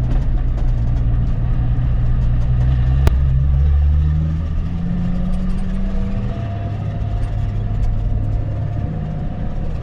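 Nissan 350Z's 3.5-litre V6 running at low speed on a gravel sight lap, heard from inside the car. The engine note rises for a couple of seconds midway and then settles back lower, with a single sharp click a few seconds in.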